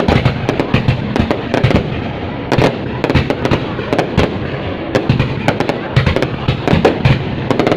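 Fireworks going off in quick succession: many sharp, irregular bangs and cracks, several a second, over a continuous rumble of distant bursts.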